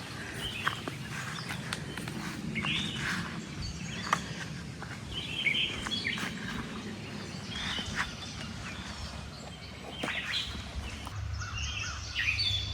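Birds chirping in short calls at intervals over a steady low outdoor background noise.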